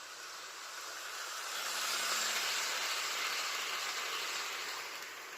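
Hornby OO-gauge model train, the Cock o' the North locomotive hauling a long rake of coaches, running past on the track. It makes a rushing hiss of wheels and motor that grows louder as the train nears, peaks about two seconds in, and fades as it moves away.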